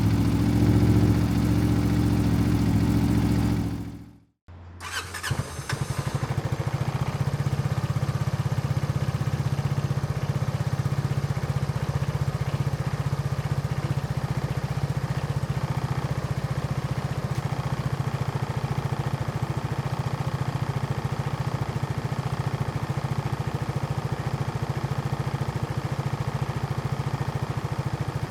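A loud steady droning sound fades out about four seconds in. Moments later a Kawasaki J300 scooter's 299 cc single-cylinder four-stroke engine is started with a short burst from the starter, catches, and settles into a steady idle through a MIVV slip-on exhaust.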